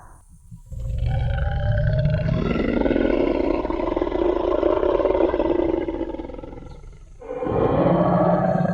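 Tyrannosaurus rex roar sound effect: a long, deep roar that fades away, then a second roar starting near the end.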